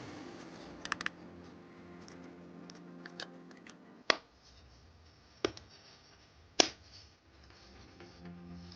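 Sharp clicks and taps from an electric kettle being reassembled by hand after its switch was replaced: a quick cluster about a second in, then single louder clicks a second or so apart. Faint background music runs underneath.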